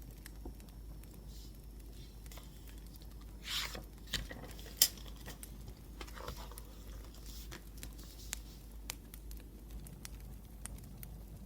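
Wood fire crackling with scattered small pops. A brief rustle comes about three and a half seconds in, and a single sharp click, the loudest sound, just under five seconds in.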